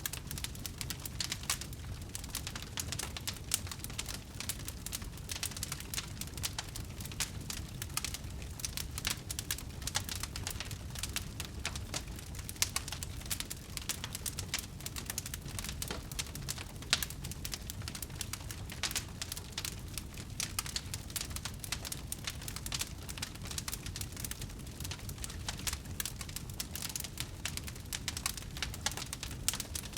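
Campfire of burning wood crackling continuously, with many small irregular pops and snaps over a low steady rumble of the flames.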